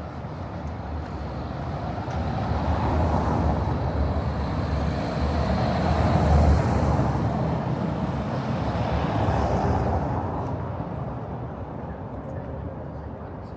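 A road or street vehicle passing close by: its noise builds over several seconds, peaks about six seconds in, then fades away.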